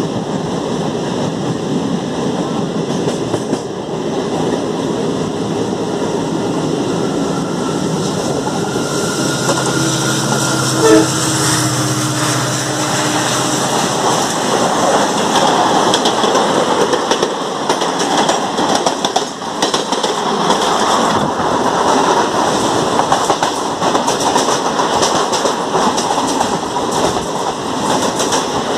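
Clatter and rumble of a suburban electric local train running at speed, with wind rushing past its open doorway, while the coaches of an express train pass close alongside on the next track. A train horn sounds for about five seconds near the middle, with one sharp knock partway through it.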